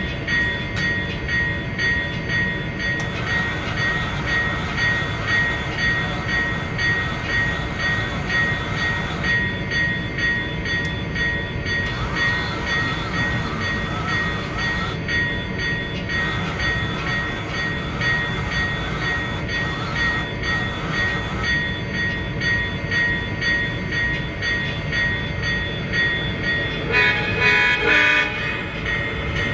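A sound-equipped model train locomotive running steadily, with a continuous engine rumble, and its horn sounding once for about a second and a half near the end.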